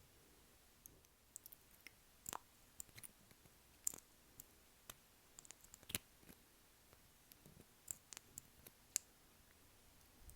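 Close-miked ASMR mouth sounds: faint, irregular wet tongue and lip clicks right at the microphone.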